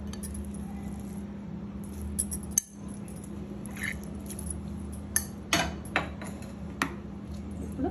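Scattered clinks and knocks of a spoon against a bowl as soaked poha is moved into it, over a steady low hum.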